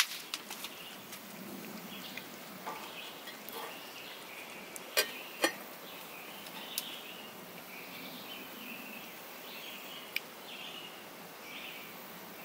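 Birds chirping on and off over a steady outdoor background, with two sharp clinks close together about five seconds in and a few fainter clicks.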